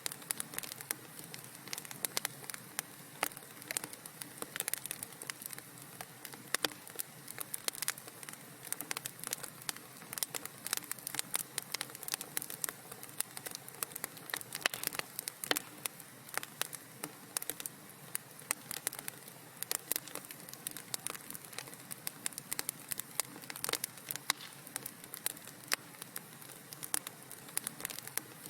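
Wood fire crackling in a fireplace: many sharp pops and snaps, several a second, over a steady soft hiss.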